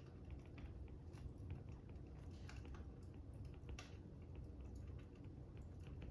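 Fire crackling: irregular small pops and clicks over a steady low rumble.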